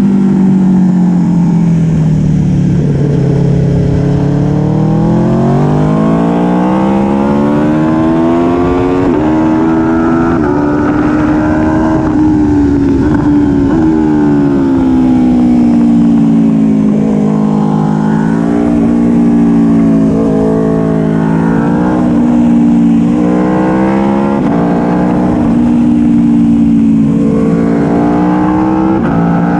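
Aprilia Tuono V4 1100 Factory's V4 engine at track pace, heard onboard. The pitch drops over the first few seconds and then climbs through the gears with quick shifts. It then falls and rises again several times through the corners.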